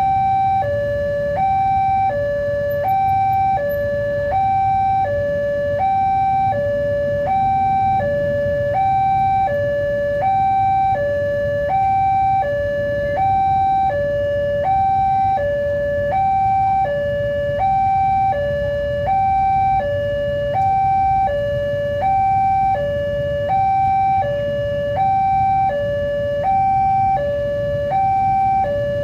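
Level-crossing warning alarm sounding a steady two-tone high-low signal, about one high-low cycle a second, warning that a train is approaching and the barriers are down. A low rumble runs underneath.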